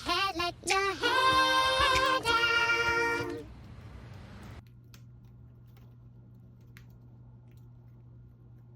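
A child singing unaccompanied, with held and gliding notes, stopping about three and a half seconds in. After that, only a faint steady hum and a few soft clicks remain.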